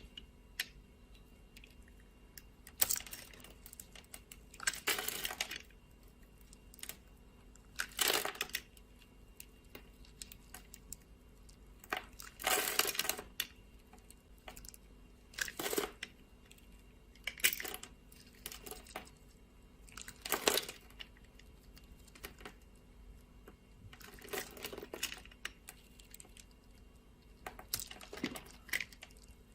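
Dry soap being cut with a knife: about ten short crunchy, crackling cuts, a few seconds apart, with quiet between them.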